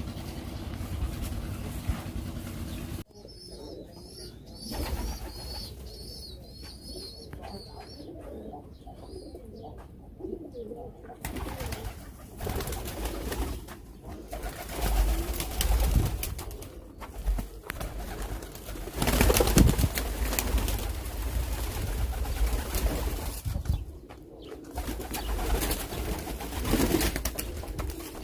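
Domestic pigeons cooing, with a small bird's quick high chirps repeating from about three seconds in to about eleven. Bursts of rumbling noise on the microphone come in the second half.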